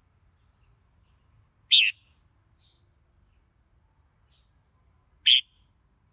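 Red-whiskered bulbul giving two short, loud calls about three and a half seconds apart, with a couple of faint soft notes in between.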